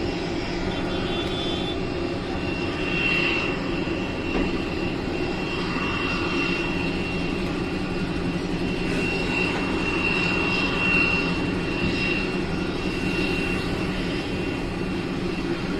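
Aircraft engine noise: a steady low hum with a high whine that comes and goes.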